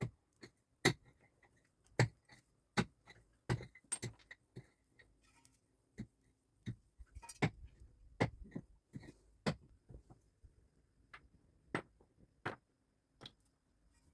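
A string of sharp, irregular knocks and clicks of hard objects striking one another, roughly one or two a second.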